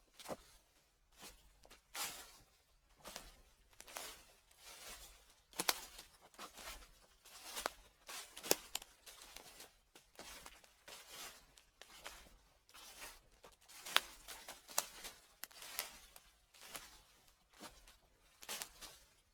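Footsteps crunching through dry fallen leaves at a slow, even pace, each step a crackle of crushed leaves, about one to two steps a second.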